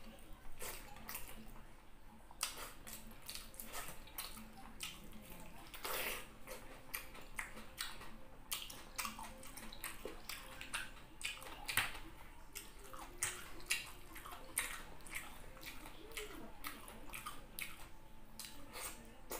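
Close-miked eating mouth sounds: chewing with wet lip smacks and clicks, many short irregular ones, as rice and a piece of fresh tomato are eaten by hand.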